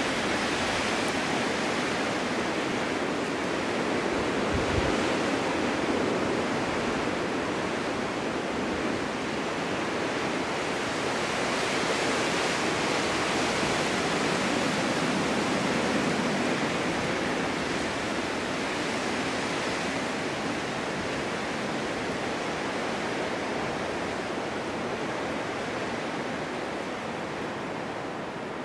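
Winter storm wind blowing in a steady rush that swells slightly in the middle and eases a little near the end.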